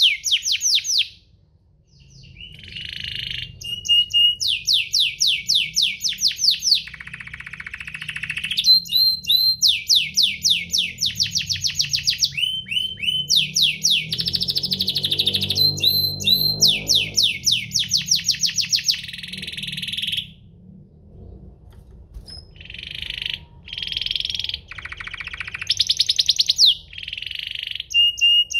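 Domestic canary singing long, fast trills of rapidly repeated downward-sweeping notes mixed with buzzy rolls. It stops briefly about a second in and again about two-thirds of the way through.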